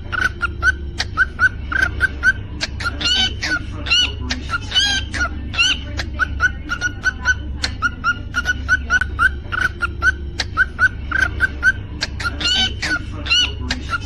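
Cockatiel singing: a quick run of short, repeated chirps at one pitch, several a second, broken by louder whistled calls that bend up and down, over a steady low hum.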